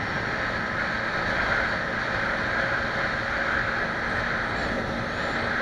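Steady running noise of a moving road vehicle, engine and road noise blended into an even drone with no changes in speed.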